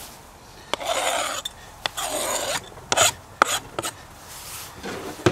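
Chopped salsa ingredients being scraped off a cutting board into a bowl: two rasping scrapes, with several sharp knocks and clicks in between.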